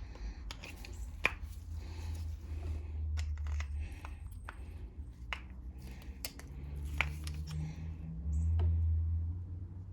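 Scattered small clicks and taps of hand tools and small carburetor parts being handled during carburetor disassembly, over a low rumble that swells twice.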